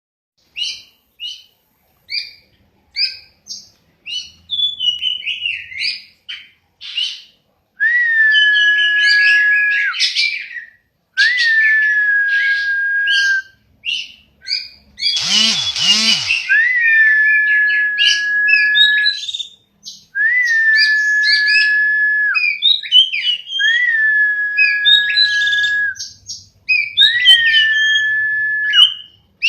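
Songbird chirping in short, quick notes; from about eight seconds in, a long steady whistle about two seconds long repeats some six times between runs of chirps, with one louder rasping burst near the middle.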